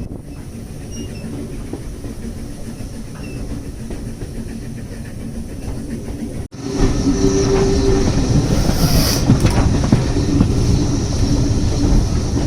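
A heritage railway train running along the line, heard from on board: steady rumble of the carriage wheels on the rails. The sound cuts out abruptly about six and a half seconds in and comes back louder.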